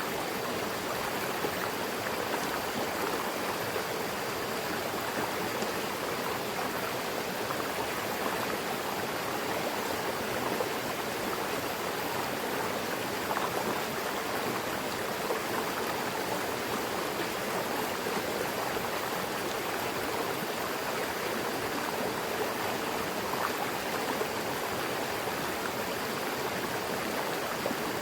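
Mountain river flowing over rocks: a steady rushing of water with no break or change.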